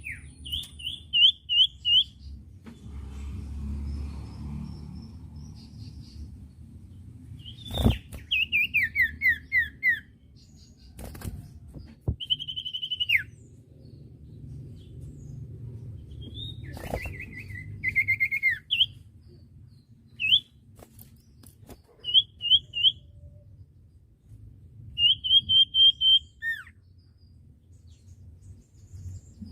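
Common iora (cipoh) song: short runs of quick repeated chirps, some falling in pitch, every few seconds, with a few sharp clicks and a faint low hum.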